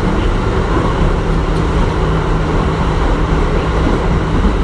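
Kintetsu 1420 series electric train with Mitsubishi GTO-VVVF traction equipment running between stations, heard from inside the car: a steady rumble of wheels on rail with a low motor hum.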